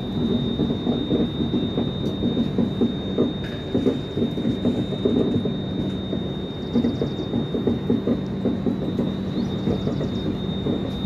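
Moving passenger train's coach heard from its open door: a steady rumble of wheels on the rails with dense rattling, and a thin steady high whine over it.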